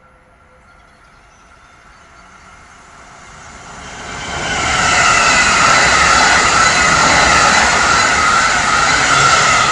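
Amtrak Northeast Corridor train approaching and passing at speed. It builds over the first four seconds, then runs as a loud rush with a steady high whine for the rest.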